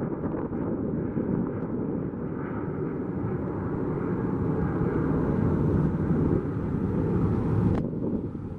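Boeing 737-700's CFM56-7B jet engines at takeoff power: a steady roar that grows louder for several seconds, with wind buffeting the microphone. The high hiss drops away suddenly near the end.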